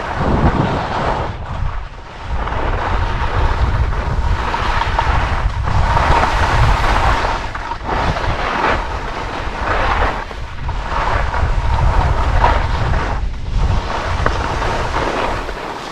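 Wind buffeting the microphone with a heavy rumble while skiing, over a hiss of skis on snow that swells and fades every two or three seconds.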